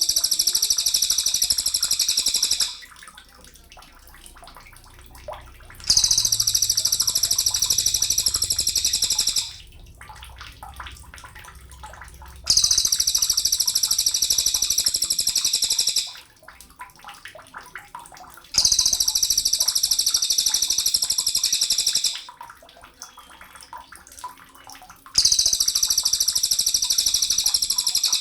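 Sogon bird song: loud, high-pitched, dense trilling phrases about three and a half seconds long, repeated about every six seconds with quiet gaps between, five phrases in all.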